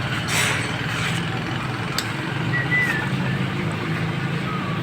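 An engine running steadily at idle, with a fast even low pulse, and a single sharp click about two seconds in.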